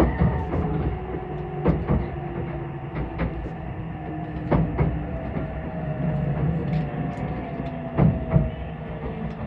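Meitetsu 2000 series μSKY electric train running, heard from inside the car: a steady rumble with irregular sharp clicks of the wheels over rail joints, and motor tones that drift slowly in pitch.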